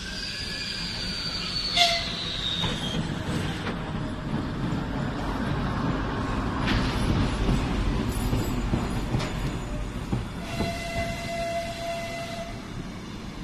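Soviet-built M62 diesel locomotive's two-stroke engine passing beneath, then its passenger coaches rolling slowly into the station: a steady low rumble with the wheels clacking over rail joints. High squeals glide down in the first few seconds, with a sharp clack about two seconds in, and a steady wheel squeal comes near the end.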